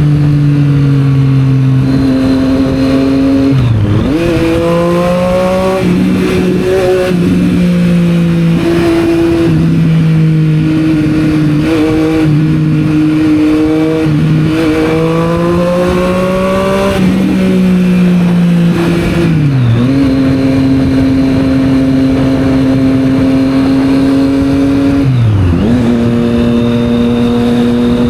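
Triumph Street Triple 765 R's three-cylinder engine through a Yoshimura exhaust, ridden at steady revs. The pitch rises twice as it accelerates, falls away once, and dips sharply several times.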